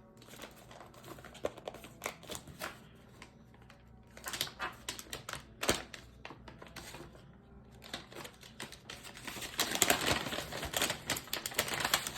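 Microwave popcorn packaging crinkling and rustling as it is handled: scattered sharp crackles and clicks that build into a dense, louder crinkling near the end.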